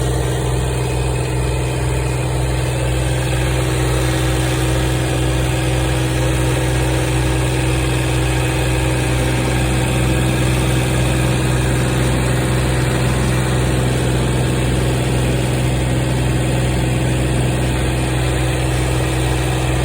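Tractor engine running steadily at an even speed, a constant low hum with a few steady higher tones over it.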